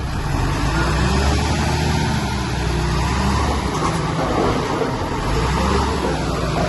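Heavy diesel earthmoving machinery running with a steady low engine drone. The rumble eases briefly about four seconds in and then comes back.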